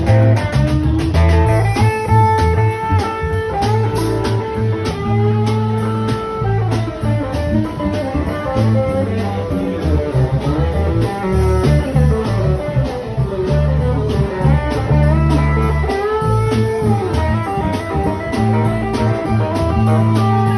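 Blues band playing an instrumental passage: a guitar playing a lead line with bending notes over bass and a steady drum beat.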